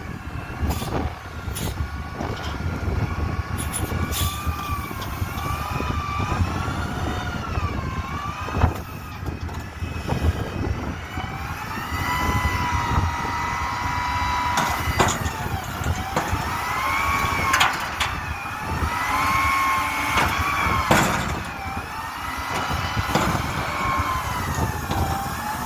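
Garbage truck working at dumpsters: a steady diesel rumble under a whine that rises and falls in pitch again and again, with sharp metal clanks every few seconds.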